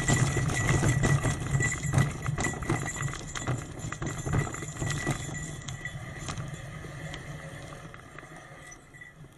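Trek 8.3 bicycle clattering and rattling over a rough forest track, with a steady low rumble and a rapid run of sharp clicks, growing quieter through the second half.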